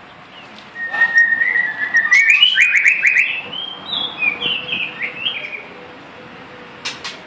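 A murai songbird (the 'murai hantu laut') singing one whistled phrase: a held note, then a quick run of rising and falling notes. A short sharp click near the end.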